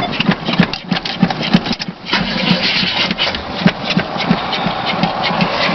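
1977 Chevy C10's 305 V8 barely running on a cold start, firing in uneven low thumps about three times a second as it struggles to stay lit.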